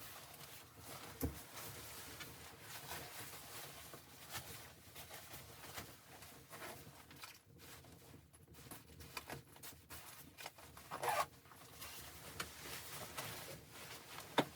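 Close rustling and scraping handling noises with scattered clicks, a sharp knock just over a second in and a louder rasp about eleven seconds in.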